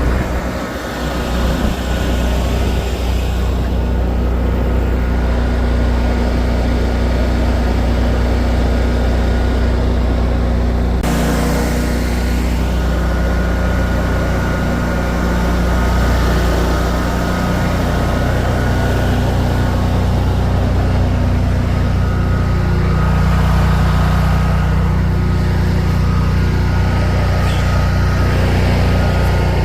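Vehicle engine running steadily under load, with a sudden change in tone about eleven seconds in.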